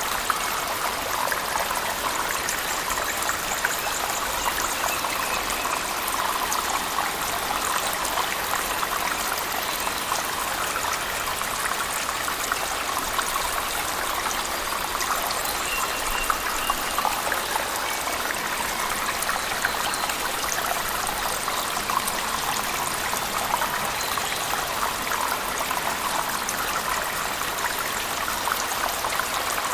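Cave waterfall mixed with heavy rain: a steady, unbroken rush of falling water with many small splashes throughout.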